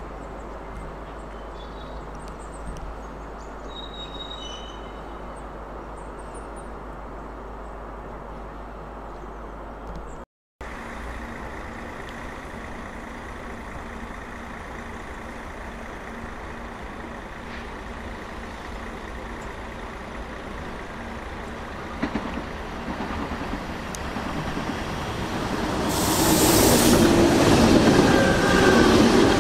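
Lineside background noise with a few short high chirps; after a brief cut, a train approaches, growing steadily louder from about two-thirds of the way in and passing loudly near the end, with a thin high wheel squeal over the rumble.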